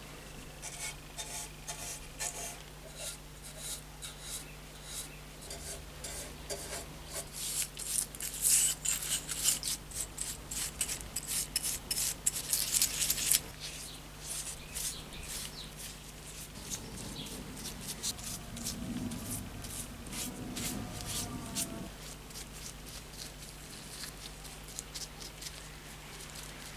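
Rapid hand-worked rubbing and scraping strokes on the lantern's metal, several a second, growing louder in the middle and then easing off. A lower, wavering sound comes in briefly in the later part.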